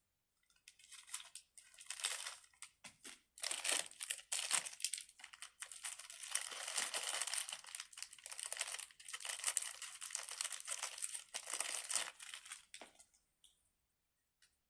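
Packaging crinkling in irregular bursts as small fidget toys are handled, stopping about a second before the end.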